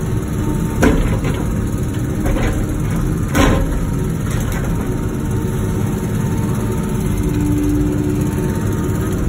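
Wacker Neuson ET145 excavator's engine running steadily, with sharp knocks about a second in and a louder one about three and a half seconds in. A brief steady whine comes in a little before the end.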